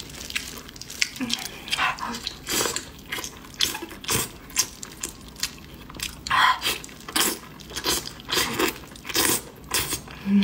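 Close-up wet smacking and squelching of a mouth chewing fatty braised pig-head meat, repeated irregularly about once or twice a second.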